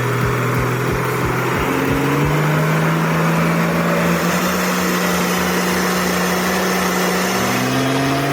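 A truck's engine running under load. Its pitch climbs over the first few seconds and holds, then drops near the end and starts climbing again.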